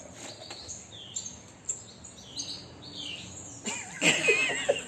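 Bird chirping in short, high chirps every fraction of a second. A louder, wavering burst of sound comes in near the end.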